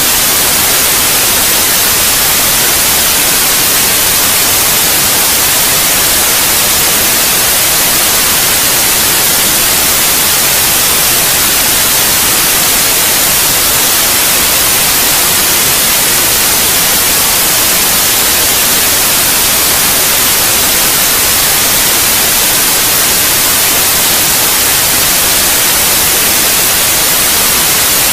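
Steady white noise for lulling babies to sleep: an even, unbroken hiss that stays the same throughout.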